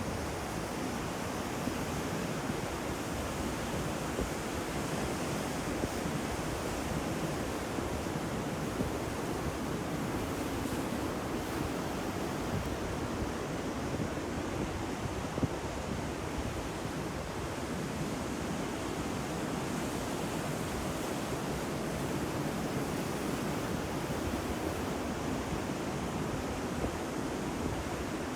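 Ocean surf: a steady, continuous wash of waves breaking on the shore.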